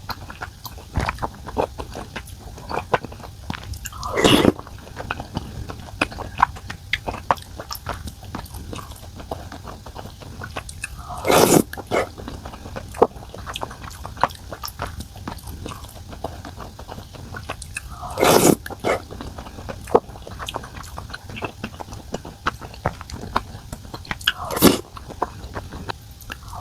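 Close-up eating sounds: steady chewing and biting with small wet clicks, broken by four louder half-second mouth sounds spaced about seven seconds apart.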